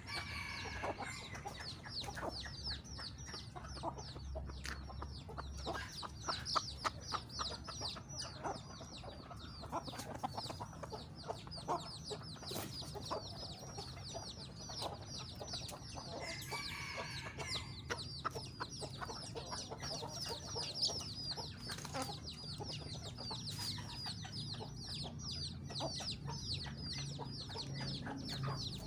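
Chickens calling: a dense, unbroken run of short high peeps, with a few lower clucks now and then.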